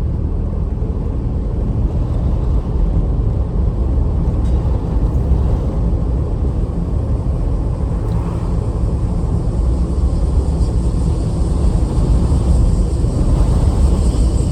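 Strong wind buffeting the microphone: a loud, continuous low rumble that rises and falls slightly with the gusts.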